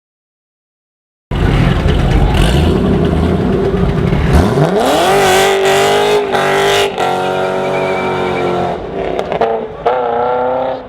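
After a second of silence, a Nissan GT-R's twin-turbo V6 through an Akrapovic exhaust accelerates hard: the pitch climbs steeply, holds high with two brief breaks like quick gear changes, then drops off near the end with a couple of short blips of throttle.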